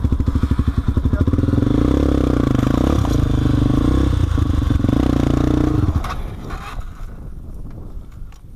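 Single-cylinder enduro motorcycle engine under heavy throttle, labouring on a rocky climb. The sound drops away sharply about six seconds in.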